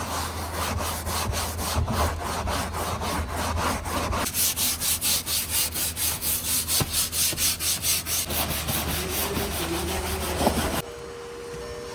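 A brush scrubbing foam cleaner into a car's interior by hand, in quick back-and-forth strokes of about five a second over a low steady hum. It stops abruptly near the end.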